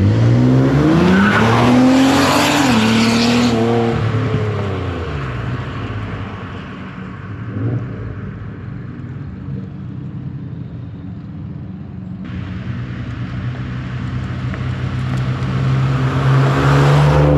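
Twin-turbo V6 of a 2014 Ford Taurus SHO through a custom prototype exhaust, accelerating hard with its pitch climbing for about three seconds and then fading as the car drives off. Near the end the engine note grows steadily louder as the car comes back toward the roadside for a drive-by.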